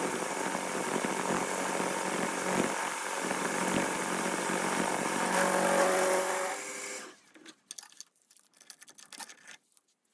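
TV-16 lathe running steadily, then switched off about seven seconds in, its noise dying away within a second. A few faint clicks follow.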